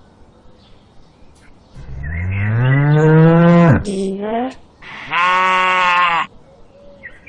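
Cow mooing: a long moo that rises in pitch, a short one right after, then another steady moo about a second long.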